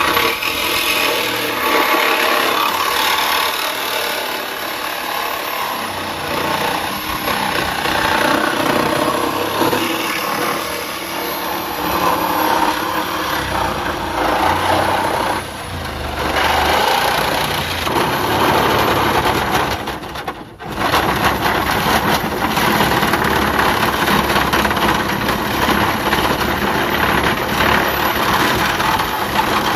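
Reciprocating saw cutting through a steel roof pillar of a 1963 Chevy cab, running almost continuously, with a short dip about fifteen seconds in and a brief stop about twenty seconds in before it starts cutting again.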